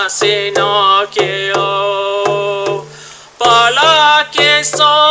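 A man singing a chanted Native American spiritual song in a wavering voice, with one long held note, over a steady drum beat of about three strokes a second. The sound drops away briefly about three seconds in, then the singing and drumming resume.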